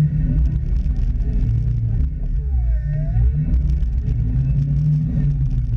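Jeep's engine running with a low rumble, heard from a camera mounted on the vehicle.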